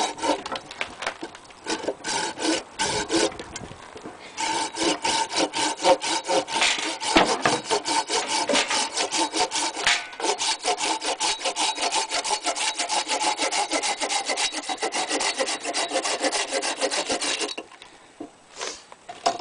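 Silky Gomtaro hand saw cutting through a block of frozen green maple. It starts with a few uneven strokes, then settles into a fast, even back-and-forth rasp, and stops a couple of seconds before the end.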